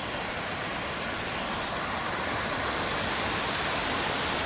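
Small stream waterfall and cascade, about eight feet high, water rushing over rocks in a steady, even wash.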